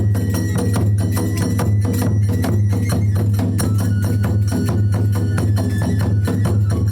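Kagura hayashi accompaniment: drums beaten in a fast, driving rhythm with sharp stick clicks and clanging hand cymbals (tebiragane), over a thin held flute line.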